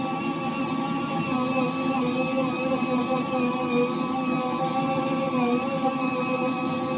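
Orbital sander with a cushion pad and 600-grit disc running steadily on a car bonnet's clear coat while a dust extractor draws air: a continuous motor whine whose pitch wavers slightly. The sander is cutting down orange peel in the clear coat before repainting.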